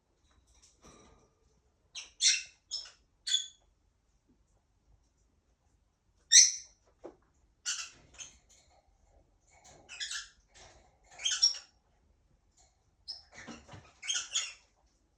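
Pet parrot giving short, high squeaks and chirps in small clusters separated by pauses.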